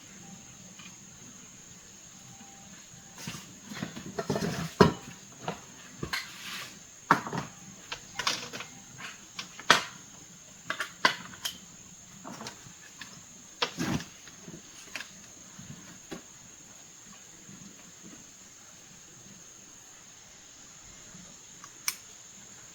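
Hand tools and small hard parts being handled: a run of clicks, clinks and knocks for about twelve seconds, then one sharp click near the end, over a faint steady high whine.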